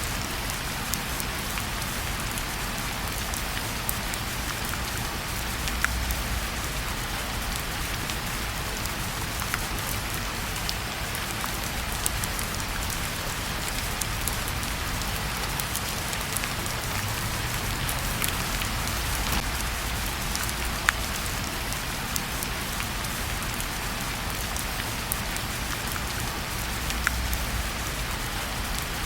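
Steady rain falling, an even hiss with scattered sharp ticks every few seconds.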